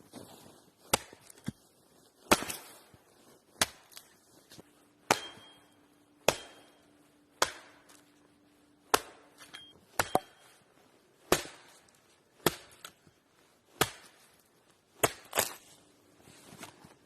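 Wood being chopped: a steady series of sharp strikes, about one a second, some landing as quick double blows.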